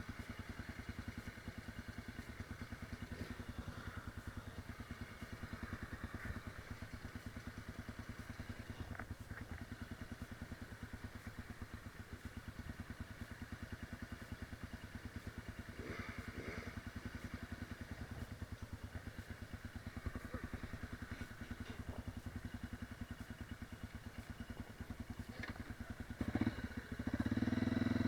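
Enduro motorcycle engine idling with a steady rapid beat; near the end it grows louder as the throttle is opened.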